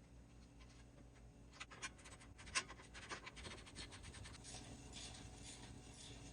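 Faint scattered clicks and light scraping of hand tools on stainless exhaust parts being fitted, becoming a steadier scratchy rubbing about four and a half seconds in.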